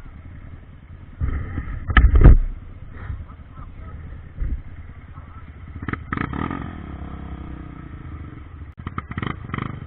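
Trail motorcycle engine revving in short bursts, loudest about two seconds in, with further revs around the middle and near the end.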